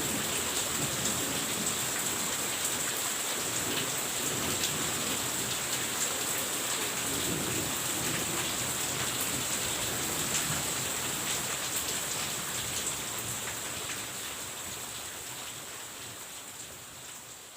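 Rain falling steadily, with individual drops clicking through the hiss and a thin steady high tone running beneath it. It fades down over the last few seconds.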